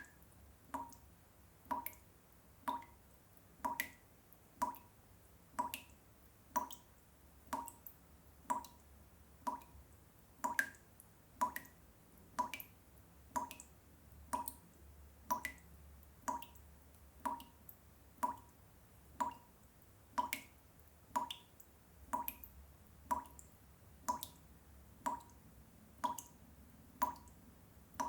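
Water drops falling one at a time, a regular plink about once a second, each drop ringing briefly.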